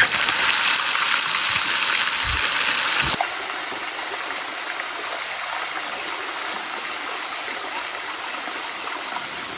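Heavy rain falling as a steady rushing hiss, louder and brighter for the first three seconds, then dropping suddenly to a softer steady rush.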